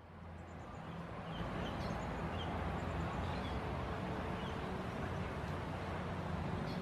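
Low motor-vehicle engine rumble that builds over the first two seconds and then holds steady, with a scatter of short, high chirps from small birds in the first half.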